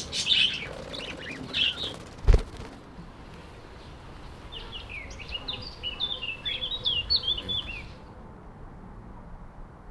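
Budgerigars chirping in quick flurries of short calls, with one sharp thump about two seconds in that is the loudest sound. The chirping stops about eight seconds in.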